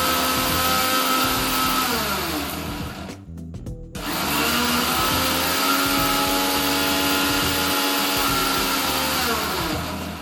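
Agaro Blitz 750W mixer grinder running at full speed in two pulses. Its steady motor whine is switched off about two seconds in and winds down with a falling pitch. It starts again about a second later, runs for about five seconds, and winds down again near the end.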